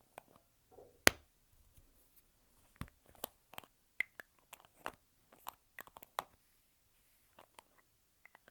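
Lipstick tubes handled close to the microphone: a string of irregular clicks and taps from caps and cases, the sharpest a loud click about a second in.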